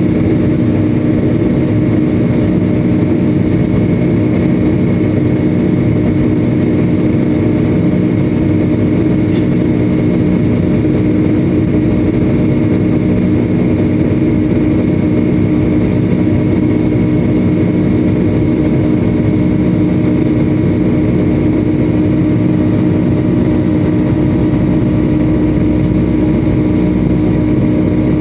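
Boeing 757-200 jet engines heard inside the passenger cabin: a loud, steady drone with a constant low hum and no change in pitch.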